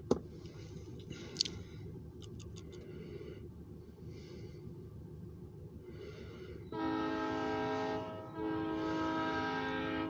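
Freight locomotive horn sounding two blasts, the first about a second long and the second nearly two seconds, in the last third, over a low steady rumble. A sharp click just after the start.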